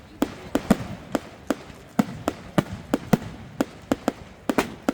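Fireworks going off in a rapid, irregular string of sharp bangs, about three a second.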